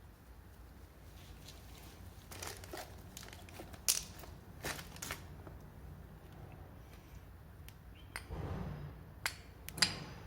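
Handling noise: scattered sharp clicks and knocks with some rustling, the sharpest click near the end.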